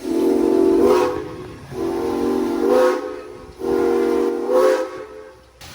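Steam whistle of Norfolk & Western 4-8-0 steam locomotive #475 blowing three blasts, each about a second long, each rising slightly in pitch just before it stops.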